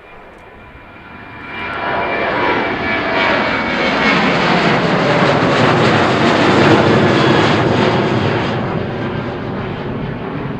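Aircraft engines passing close by: the noise swells over a couple of seconds, is loudest around six to seven seconds in with a pitch sliding downward as it goes past, then starts to fade.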